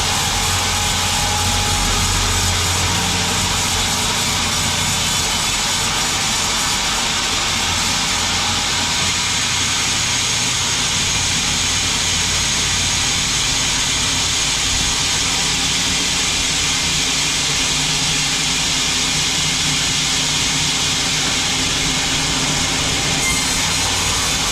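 Sawmill running steadily as its saw cuts through a log: a continuous loud machine drone with a dense hiss over it, at an even level throughout.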